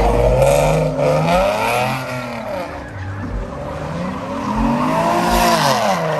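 A car engine revving up and down, about once every two seconds, while its tires squeal and skid in a sustained wheelspin.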